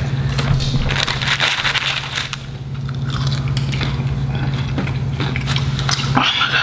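Close-miked crunching and chewing of battered fried food, in irregular crackly bites, over a steady low hum.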